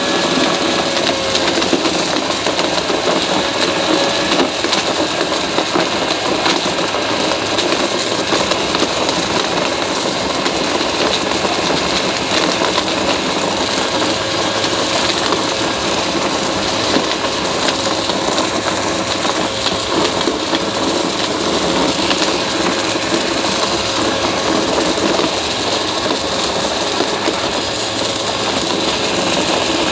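Upright vacuum cleaner running steadily with its brushroll, the motor whining under a constant crackle of crunchy debris being sucked up.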